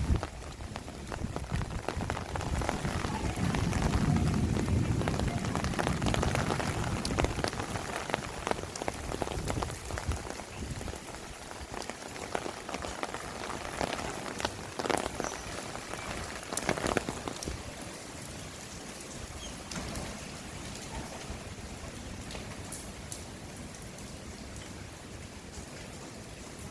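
Heavy rain pouring down in a rainstorm, with a low rumble swelling a few seconds in and scattered sharp drops striking. The downpour eases toward the end.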